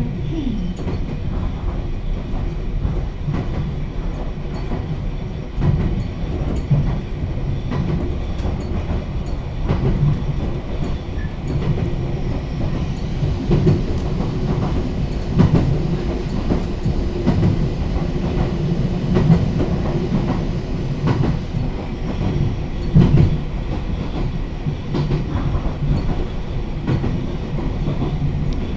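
Kamikochi Line electric train heard from inside the car while under way: a steady low rumble of wheels and running gear, with the clickety-clack of wheels over rail joints and a few louder knocks.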